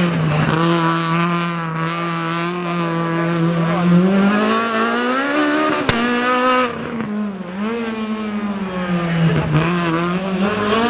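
Rally car engine held at steady high revs for about four seconds, then revving higher, dropping back and rising again, with tyres squealing. A sharp crack about six seconds in.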